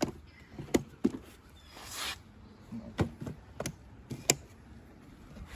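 A handful of sharp clicks and taps, spaced irregularly, with a short rustle about two seconds in.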